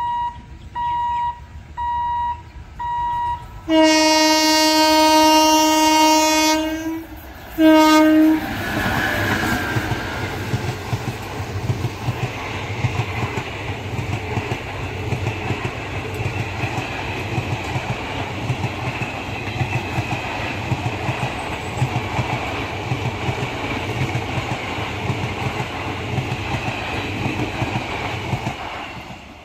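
Electronic beeps repeating about once a second. Then an Indian Railways train horn sounds one long blast of about three seconds and a short second blast. After that an express train of passenger coaches rolls past, its wheels clattering steadily over the rails, until it fades near the end.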